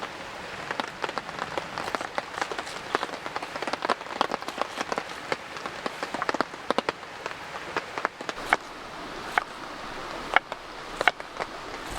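Steady rain, with many irregular sharp drips striking close by.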